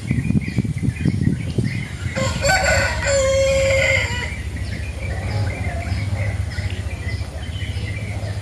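A rooster crowing once, about two to four seconds in, over a low rumble.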